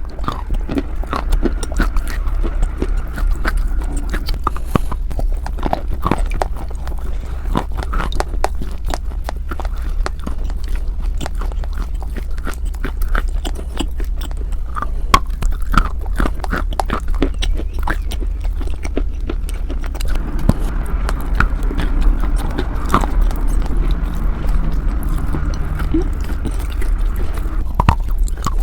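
Chalk being bitten and chewed close to the microphone: a dense run of crisp crunches and clicks, over a constant low hum.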